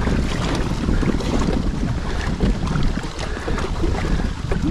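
Steady wind buffeting the microphone on a kayak, with water sloshing against the hull.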